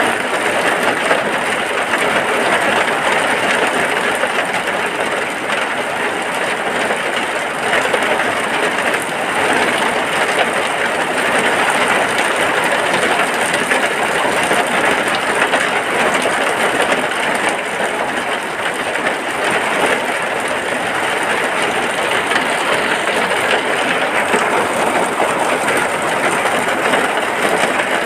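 Steady, dense rain falling without a break.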